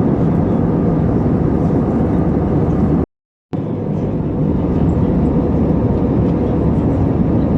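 Steady rumble of jet engine and airflow noise heard inside the cabin of an Airbus A320 airliner in flight. It cuts out to silence for about half a second about three seconds in, then resumes.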